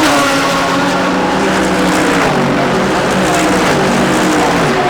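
GT3 race car engines at speed, several cars heard at once, their pitch sliding downward as they go by or brake.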